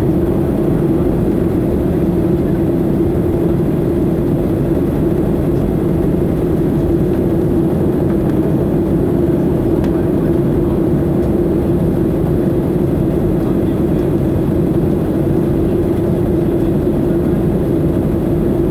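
Boeing 737-800's CFM56 jet engines running steadily, with a loud even rush of engine and airflow noise and a steady hum.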